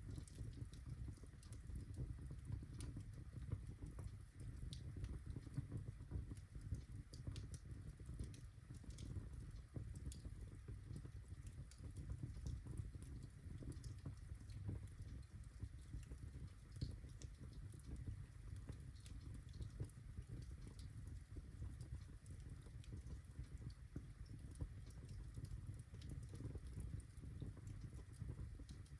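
Birchwood fire crackling in a fireplace: irregular small pops and snaps over a low, steady rumble of the flames.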